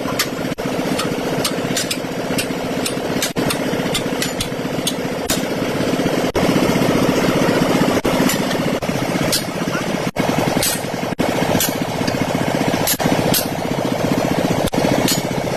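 An engine running steadily at idle, with frequent short, sharp clicks over it.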